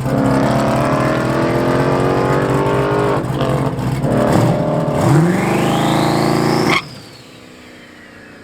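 Twin-turbo Mustang drag car's engine running hard, then revving up with a steep rising whine for about two seconds. The engine sound cuts off suddenly about seven seconds in, leaving a faint whine that slowly falls away.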